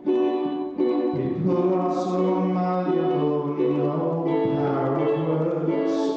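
Live acoustic music: struck chords on an instrument under a voice holding long, slightly wavering notes.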